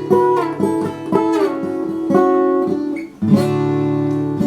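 Acoustic guitar playing chords, each chord struck and left to ring, with a brief drop about three seconds in before the next strum.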